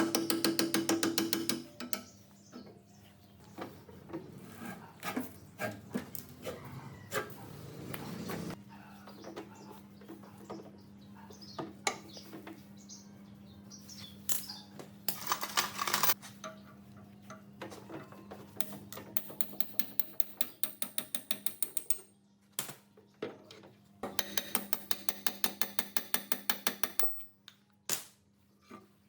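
Metal hand-tool work on machine parts: several runs of rapid, even clicking like a ratchet being worked, with single clicks and knocks between, over a steady low hum.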